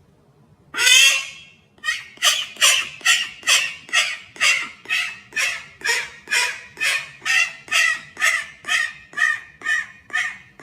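A bird calling: one longer call about a second in, then a steady series of about twenty short calls at roughly two a second.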